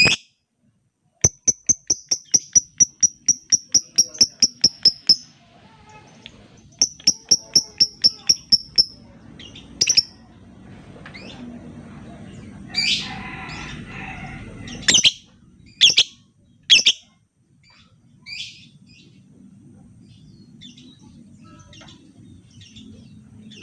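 Lovebird calling: two rapid runs of sharp, evenly spaced chips at about four a second, then several louder single calls.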